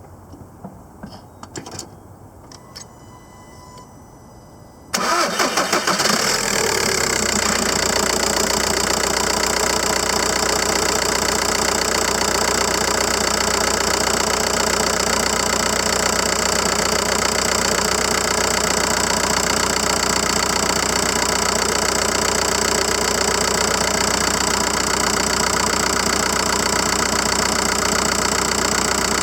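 2005 Volkswagen Jetta's 1.9 TDI diesel engine starting from cold at 7 °F, its block heater having pre-warmed the coolant. After a few faint clicks, it starts easily about five seconds in and settles straight into a steady idle.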